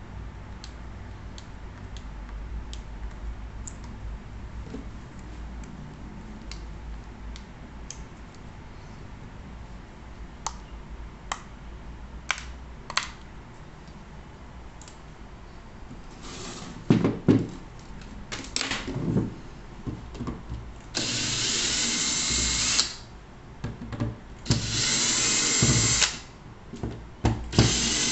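Scattered faint clicks and taps, then a small power tool such as a drill run in three short bursts of one to two seconds each near the end.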